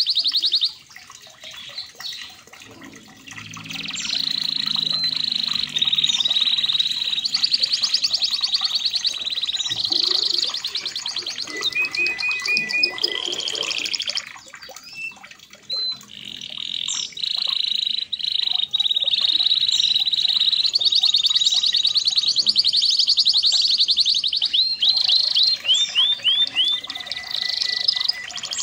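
Red canary (local red-factor canary) singing long runs of rapid high trills and rolling repeated notes, broken by brief pauses about a second in and again around the middle.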